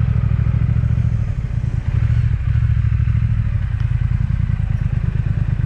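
Triumph Speed Twin's parallel-twin engine running at low speed. It eases off briefly about a second and a half in, then picks up again.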